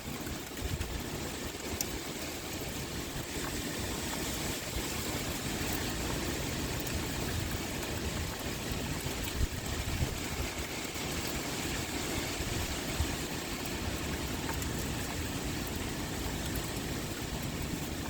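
Steady pouring rain with wind, a low rumble underneath that rises and falls. A few sharp ticks stand out briefly around the middle.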